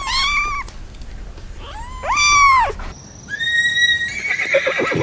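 Animal calls: a short high, arching cry, then a longer one about two seconds in; after a cut, a different animal gives a held, thin call followed by a brief noisy scuffle.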